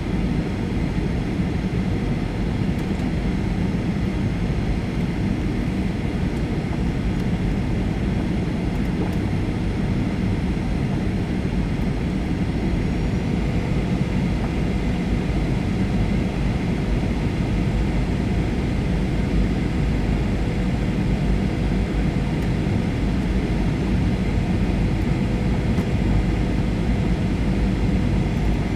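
Steady cabin noise inside a Boeing 737-800 on its descent to land: rushing airflow and the drone of its CFM56 engines, with a faint steady whine in it.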